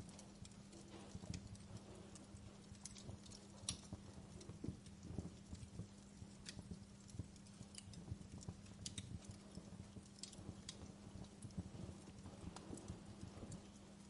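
Wood fire crackling, with irregular sharp pops and clicks over a low steady hum.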